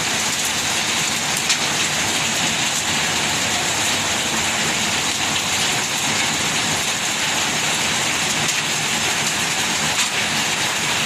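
Hailstorm with heavy rain pelting down: a dense, steady hiss of falling rain and hail, with a couple of sharper single hits standing out, about a second and a half in and near the end.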